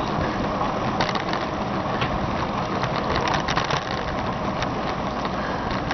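Steady rushing noise of a bicycle ride on the road, with scattered light clicks.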